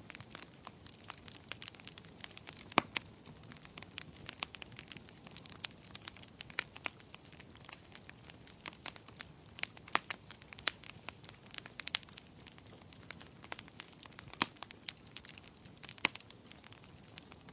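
Wood fire in a fireplace crackling, with frequent irregular sharp pops and snaps over a low hiss of burning.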